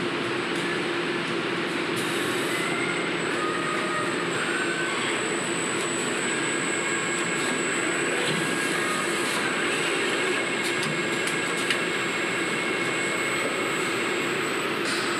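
Factory machinery noise: a steady din with a constant low hum, a thin high whine and several fainter whines that come and go, with a few light clicks.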